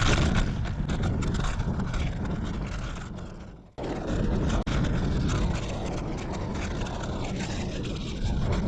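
Strong wind buffeting the microphone, a dense low rumble. It dips and cuts out abruptly for a moment a little under four seconds in, then comes back.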